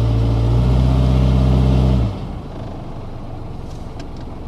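2000 Toyota Camry's four-cylinder engine held at raised revs in neutral, then dropping back to idle about two seconds in. The engine has a logged cylinder 4 misfire.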